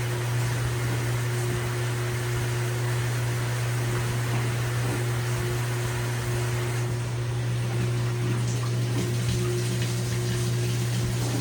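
LG WT7600HVA top-load washing machine running mid-cycle: water moving in the machine over a steady low hum.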